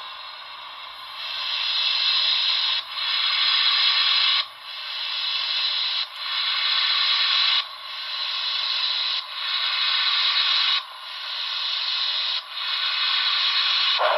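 Paragon4 sound decoder in an HO-scale NYC Hudson playing slow steam-locomotive exhaust as the engine starts off at its lowest speed step: long hissing chuffs, one about every second and a half, each cut off sharply.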